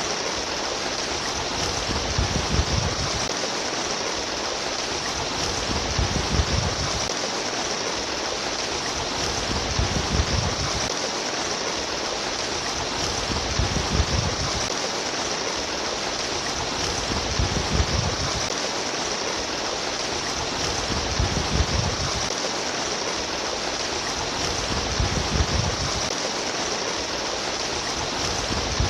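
Babbling stream water flowing steadily, with a deeper rushing swell every three to four seconds.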